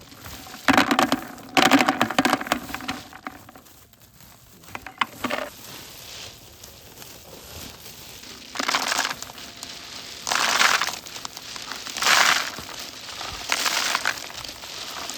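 Repeated crunching scrapes: a cluster of them early, then single strokes under a second long about every second and a half in the second half.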